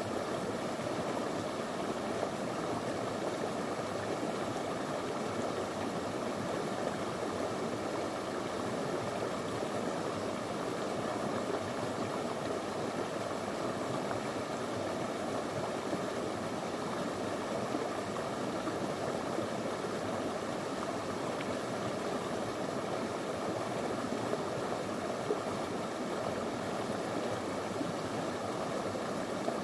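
Small river flowing over stones, a steady rushing and burbling of water.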